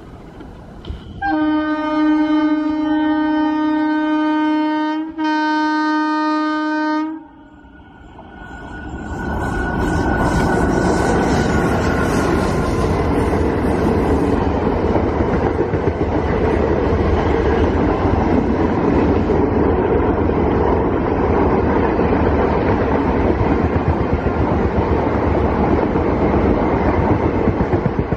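WAP-4 electric locomotive's air horn sounding twice, a long blast and then a shorter one, cutting off suddenly about seven seconds in. Then an express train's passenger coaches pass at speed, their wheels clattering over the rail joints in a steady loud rush that swells up over a couple of seconds.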